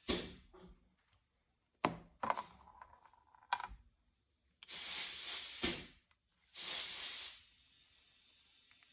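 Small metal carburetor parts clicking and clinking against a hard surface a few times, then two hissing spray bursts, the first over a second long and the second shorter.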